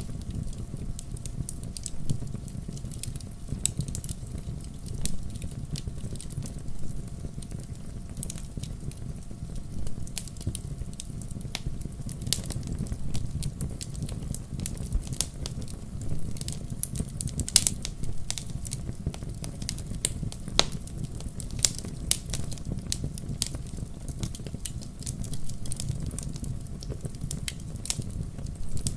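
Wood fire burning in a fireplace: a steady low rumble of the flames with irregular crackles and pops of the burning logs, a couple of sharper pops standing out midway.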